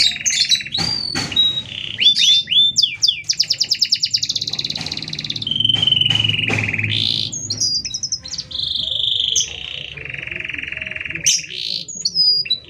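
Domestic canary singing a long, unbroken song of rapid trills, buzzy rolls and whistled glides, phrases following one another with no pauses.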